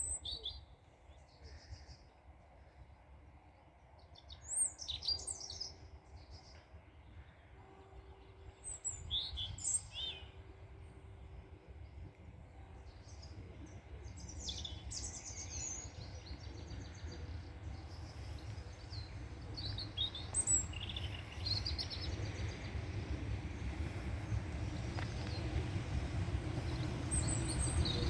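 Small birds chirping and singing on and off, with a low rumble of an approaching train building steadily through the second half and growing louder toward the end.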